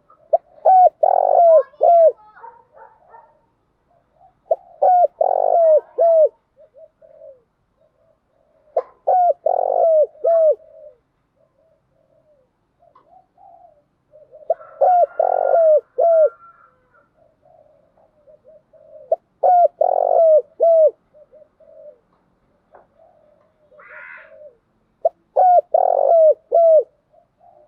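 Spotted dove cooing: six phrases of several deep, hooked coo notes, one phrase about every five seconds, with faint small chirps in the gaps.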